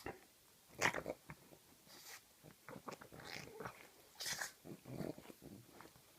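Pug licking and mouthing at bedding: irregular wet mouth sounds and short clicks, the loudest about a second in and another strong one a little after four seconds.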